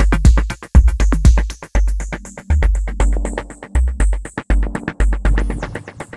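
Dub techno track: deep bass-kick pulses under fast, even hi-hat ticks from a drum machine, with a held synthesizer chord coming in about two seconds in.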